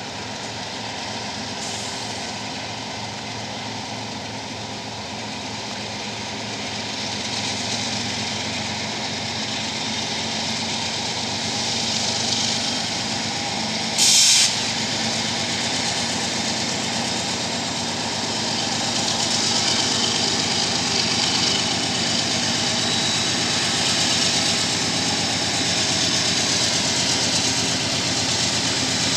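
GE diesel-electric freight locomotives working under heavy load as they lug a train uphill from a start, their engine drone building gradually. A short loud hiss cuts in about halfway through.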